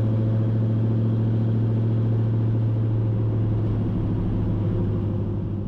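LS V8 swapped into a 1950 Pontiac, running steadily with an even, low drone.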